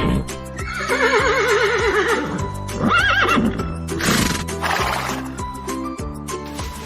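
Horse neighing over background music with a steady beat. A long quavering whinny falls in pitch, a shorter whinny follows about three seconds in, and then comes a breathy rush of noise.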